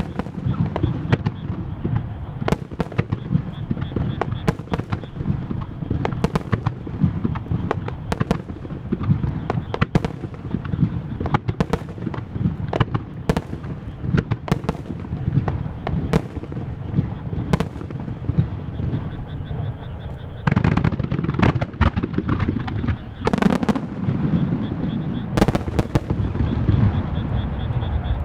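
Starmine fireworks barrage: shell bursts going off in rapid, continuous succession over a deep rumble. The volleys grow especially dense about twenty, twenty-three and twenty-five seconds in.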